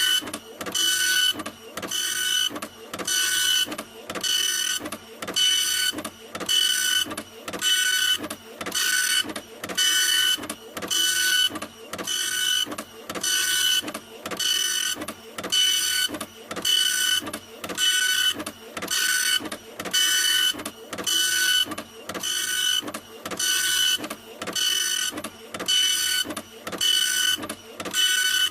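A printer running in a steady loop: an evenly repeating mechanical whirr, about four passes every three seconds, each pass carrying a high whine.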